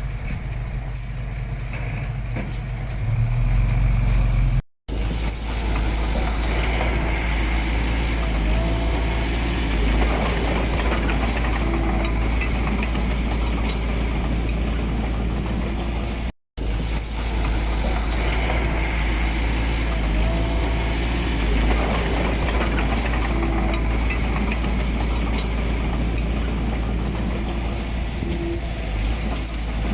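Heavy diesel engine of earthmoving machinery running steadily. The sound cuts out for an instant twice.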